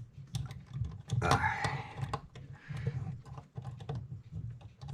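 Small metal clock-movement parts and tools clicking and tapping as a wheel is worked into place between the plates, in a string of irregular light clicks.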